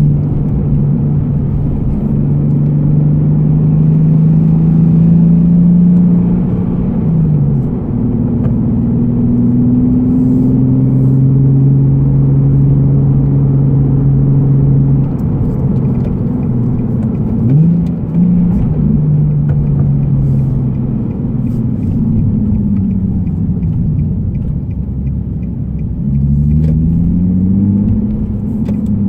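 Nissan Fairlady Z (Z34)'s 3.7-litre V6 with an aftermarket be free muffler, heard from inside the cabin while cruising gently in a six-speed manual. The engine note holds steady for long stretches, drops a few times as the revs fall, with a short blip in the middle, and climbs steeply near the end.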